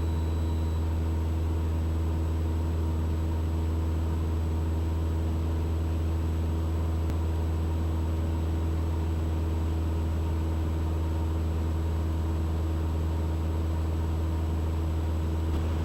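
Steady cockpit drone of a Mooney M20E's four-cylinder Lycoming IO-360 engine and propeller at constant cruise power, a low hum with an even hiss over it.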